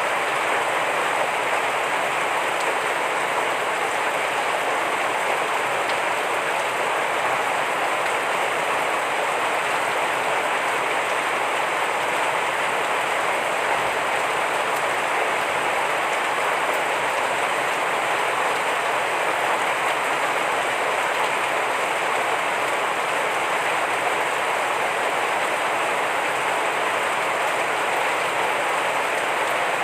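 Heavy rain falling steadily, a dense even hiss that holds without a break.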